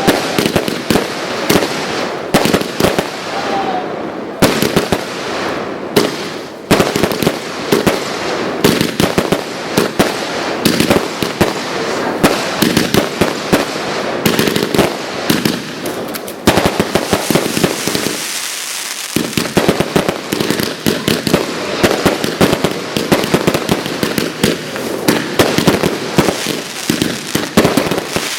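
Fireworks display going off continuously: a dense, rapid run of bangs and crackling bursts with no let-up.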